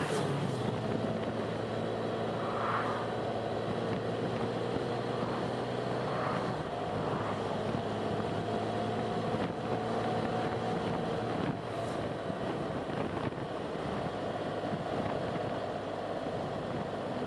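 Steady motor-vehicle running noise: a constant rush with a low engine hum and a faint tone that slowly shifts in pitch.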